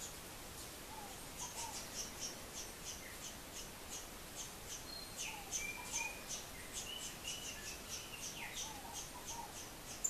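Birds calling: a fast, steady run of high, thin chirps at about four a second throughout. In the middle come a few short, lower calls, which fit the crimson-crested woodpecker calling with its bill raised.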